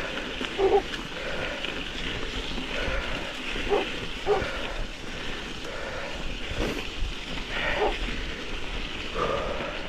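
Dogs barking, a handful of short barks spaced out over several seconds, over a steady rush of wind on the microphone.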